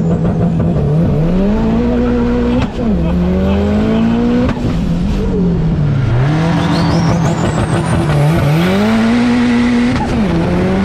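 Compound-turbo Subaru WRX STI flat-four doing two launch-control launches. Each time the engine is held at a steady rev on the launch limiter while a high whine climbs in pitch as the turbos spool, then the revs climb hard through first gear and drop sharply at the shift into second.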